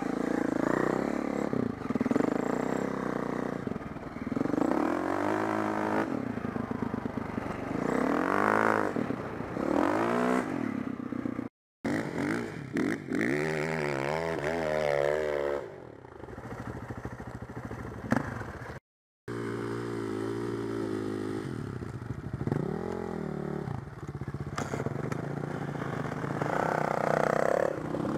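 Four-stroke enduro dirt bike engine revving up and down repeatedly under throttle, with mechanical clattering over it. The sound cuts out twice, briefly, near the middle.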